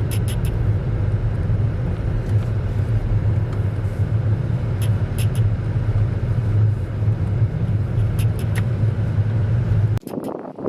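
Steady low rumble of road and engine noise inside a moving car's cabin, with a few light clicks; it cuts off abruptly near the end.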